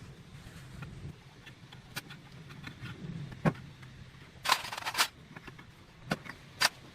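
Workshop handling noises: a few sharp knocks and clicks of parts being handled, loudest in a quick cluster about halfway through, over a low steady hum.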